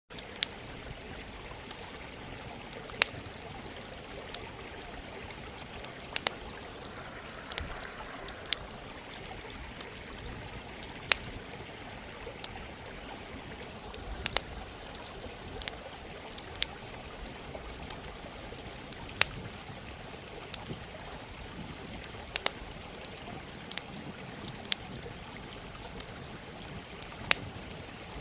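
A campfire crackling with sharp, irregular pops over the steady rush of running water.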